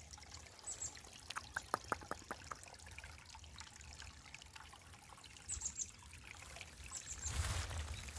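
Small mountain stream trickling softly over rocks, with a run of light clicks about one to two and a half seconds in.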